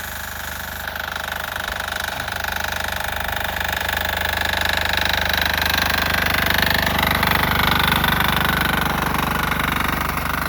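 Sears Suburban tractor's 6 HP single-cylinder air-cooled diesel engine running steadily under load, growing louder through the middle and easing slightly near the end.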